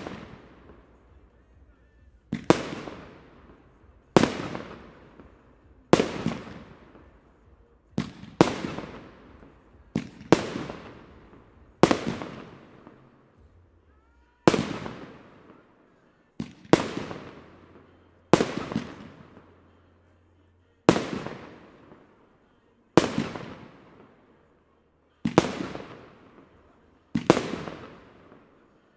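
Aerial firework bursts going off one after another, a sharp bang about every two seconds, a few of them in quick pairs. Each bang trails off over a second or so.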